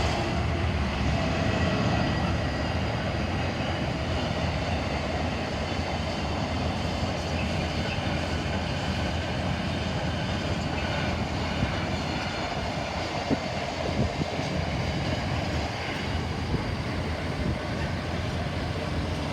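A freight train hauled by Class 66 diesel locomotive 66784 passing: a steady rumble of wagon wheels on the rails, loudest at the start, with a few sharp clicks in the second half.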